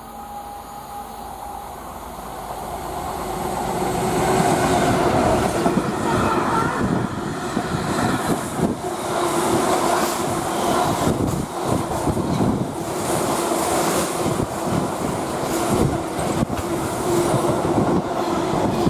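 GBRF Class 66 diesel freight locomotive and its train of wagons passing through. The noise builds over the first four seconds, then holds as a loud rumble and clatter of wagon wheels over the rail joints, with a steady faint whine.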